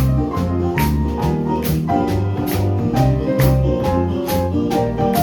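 Small live jazz band playing an instrumental passage: drums keep a steady beat with cymbal strokes about twice a second over stepping bass notes and chords.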